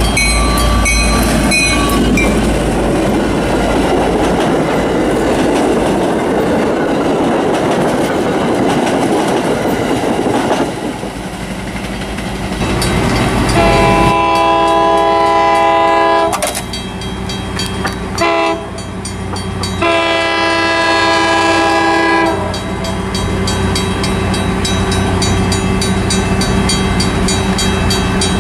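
Diesel commuter train passing with a loud rumble, then its multi-tone air horn sounding a long blast, a couple of short ones and another long blast about halfway through. Grade-crossing bells ring steadily at the start and again near the end.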